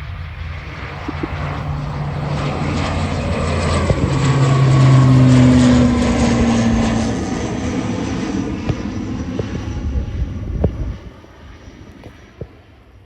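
ATR 72-600 turboprop airliner at takeoff power passing by, its twin Pratt & Whitney PW127 engines and propellers droning. The sound swells to its loudest about halfway through, its pitch dropping as the aircraft goes past, then fades away quickly near the end.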